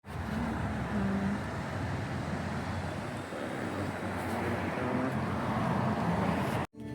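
Steady road-vehicle noise, a continuous rumble and hiss, that cuts off suddenly near the end.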